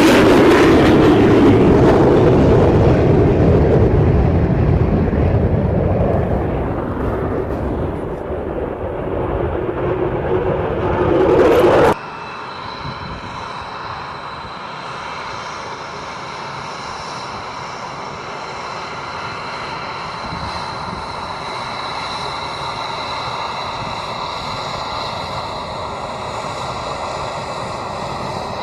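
Twin Pratt & Whitney F119 turbofan engines of an F-22 Raptor: loud jet noise that slowly fades, then, after a sudden cut about twelve seconds in, a quieter steady jet whine with several high steady tones, engines running at low power.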